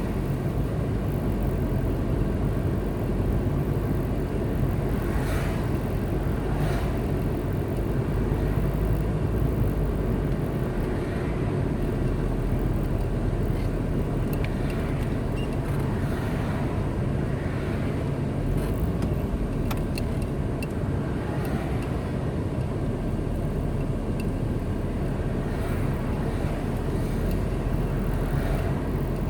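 Car driving on a highway: steady low engine and tyre rumble, with a few faint brief swishes along the way.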